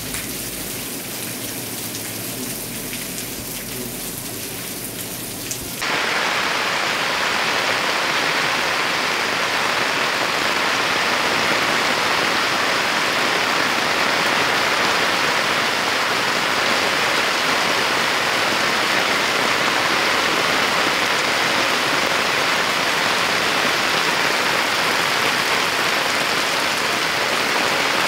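Rain falling steadily on a paved street and rooftops, an even hiss. About six seconds in it changes abruptly to louder, hissier rain.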